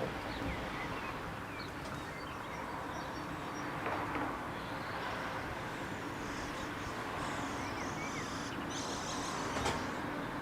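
Small birds chirping and twittering in short high calls over a steady low rumble with a faint hum. A sharp click comes about four seconds in and another near the end.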